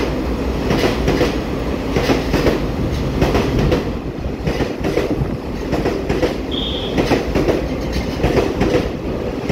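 TRA EMU900 electric multiple unit moving along the platform, a steady rumble with its wheels clacking over rail joints. A short high-pitched squeal about six and a half seconds in.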